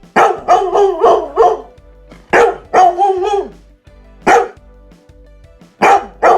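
Dog barking in short bursts, several in quick succession, then single barks with pauses between them, one longer and drawn out, over soft background music.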